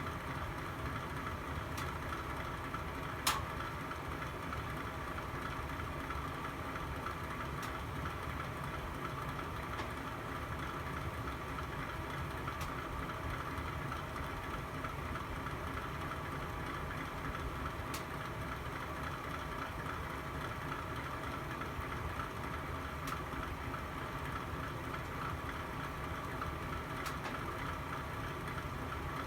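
Fire burning in a fireplace: a steady rushing sound with a few sharp pops several seconds apart, the loudest about three seconds in.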